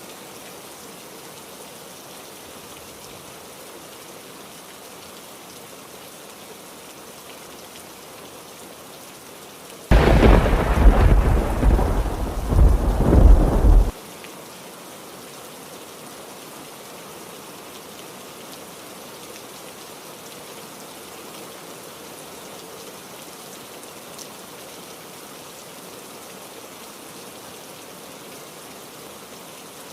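Steady heavy rain with a loud thunderclap about ten seconds in that rumbles for about four seconds, starting and cutting off abruptly, before the rain goes on alone.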